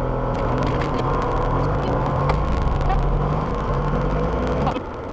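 Car engine and road noise heard from inside the cabin: a steady hum with a few sharp ticks, cutting off shortly before the end.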